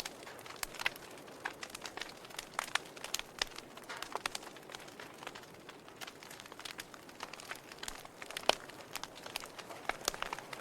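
Logs burning in a fireplace, crackling with irregular sharp pops and snaps over a soft hiss; the sharpest pop comes about eight and a half seconds in.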